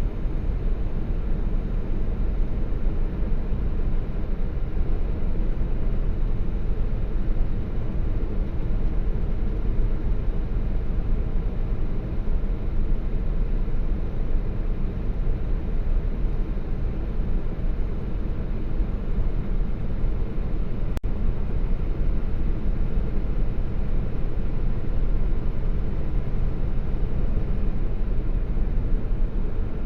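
Steady low rumble of a truck's engine and road noise, heard from inside the cab.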